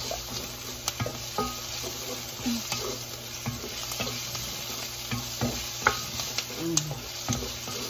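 Chopped onion and garlic sizzling in an enameled cast-iron pan, with a steady hiss, while a spatula stirs and scrapes across the pan in short strokes at irregular intervals.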